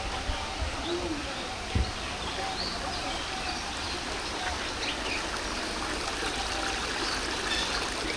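Steady rush of running water with scattered short, high bird chirps over it, and a brief thump about two seconds in.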